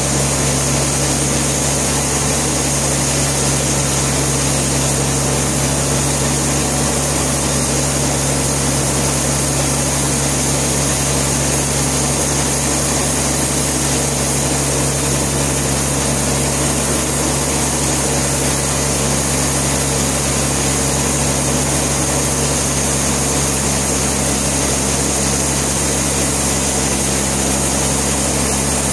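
Sawmill machinery running steadily, a loud constant hum with no change in load.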